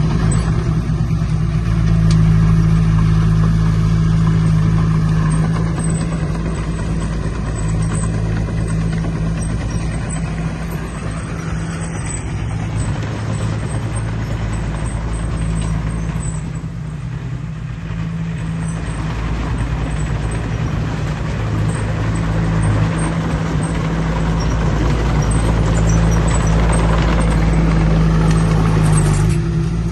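Heavy diesel engine of earthmoving machinery running steadily under load, a deep, constant drone that eases slightly about halfway through and builds again toward the end.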